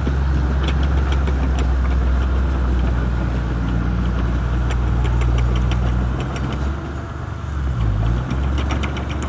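Shantui crawler bulldozer's diesel engine running steadily, with light rapid clicking over it; the engine note sags and wavers for a couple of seconds about six seconds in before picking up again.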